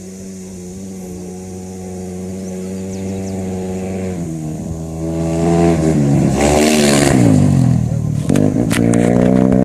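Rally motorcycle engine approaching at steady revs and growing louder, then passing close with the revs rising and falling several times through gear changes.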